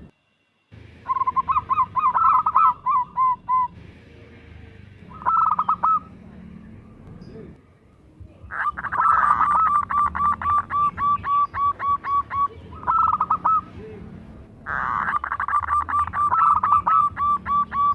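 Zebra dove cooing in several bouts of rapid, evenly spaced notes, about four a second, each note a short falling coo; the longest bout runs a few seconds in the middle and another begins near the end.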